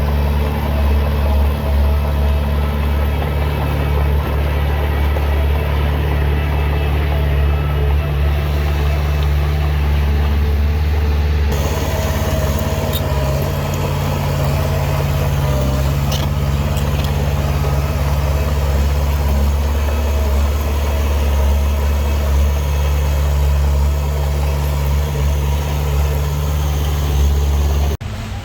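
Heavy diesel engine of earthmoving machinery running steadily with a low, even drone; the sound changes abruptly about eleven seconds in.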